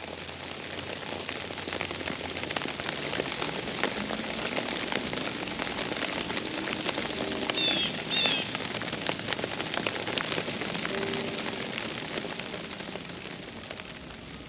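Steady patter of storm precipitation falling and striking surfaces, a dense run of fine ticks. Two short high chirps sound near the middle.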